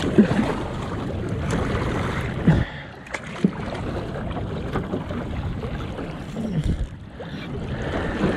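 Sea water lapping and splashing against a kayak's hull, with wind buffeting the microphone and a few light knocks.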